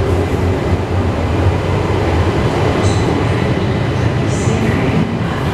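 Belgian passenger train coaches rolling out of an underground station platform: a steady low rumble of wheels on the rails. Two brief high-pitched sounds come about three and four and a half seconds in.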